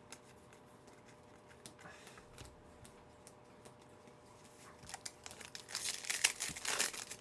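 Wrapper of a trading card pack being torn open and crinkled. A few faint clicks, then the crinkling starts about five seconds in and gets louder.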